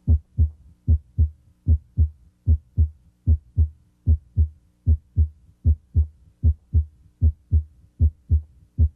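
Normal heart sounds heard through a stethoscope at the mitral area (cardiac apex): a steady lub-dub, S1 from mitral valve closure followed closely by S2. The beat is regular, about 75 a minute, with a faint steady hum underneath.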